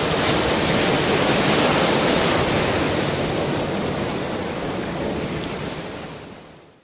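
Ocean surf washing in a steady rush that swells early on, then fades away to silence near the end.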